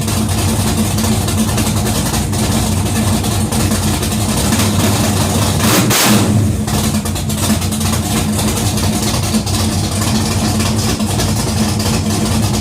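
1967 Plymouth Satellite's 440 big-block V8 running through a new 3.5-inch exhaust, with a steady low rumble and a brief louder burst about halfway through.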